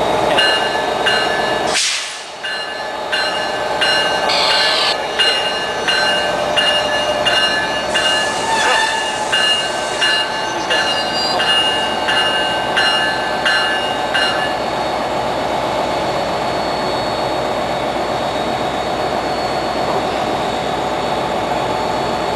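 NJ Transit diesel train running at the station with a steady engine hum, while a warning bell rings in an even beat until about fourteen seconds in.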